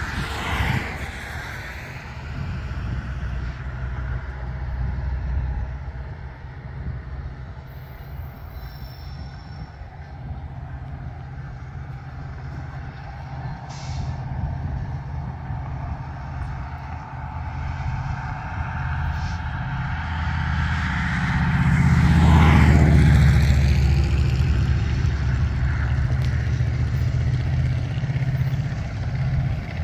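Distant freight train approaching, led by a BNSF SD70ACe diesel-electric locomotive: a steady low engine rumble. A road vehicle passes close at the start, and a louder one sweeps past about two-thirds of the way in.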